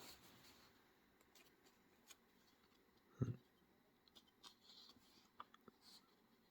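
Near silence with a few faint clicks and one soft thump about three seconds in: small items being handled.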